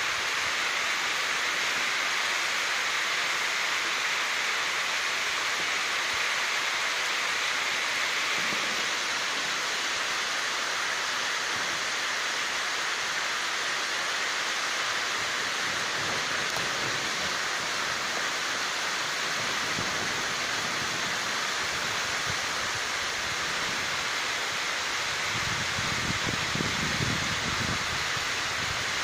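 Heavy rain falling steadily on rooftops, a dense, even hiss that holds at the same level throughout.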